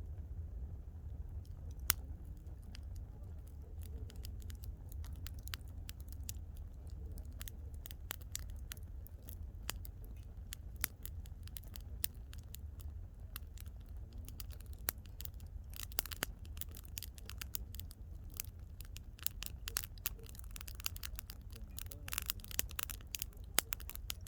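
Wood campfire crackling: irregular sharp pops and snaps, bunching more densely around two-thirds of the way in and near the end, over a steady low rumble.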